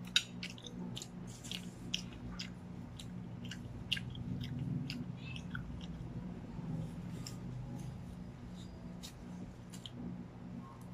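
Close-miked chewing of a mouthful of Filipino-style spaghetti: wet mouth smacks and clicks at irregular intervals, with a few sharper clicks, over a low steady hum.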